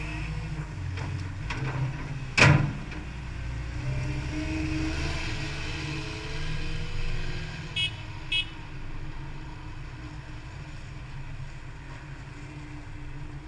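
Diesel engine of a CAT 242D skid steer running steadily, with a sharp knock about two and a half seconds in and two short beeps a little past the middle.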